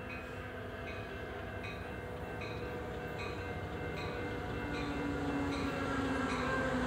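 Amtrak passenger train approaching, its sound growing steadily louder, with a low steady tone swelling in the last couple of seconds. A warning bell dings steadily throughout, about three strikes every two seconds.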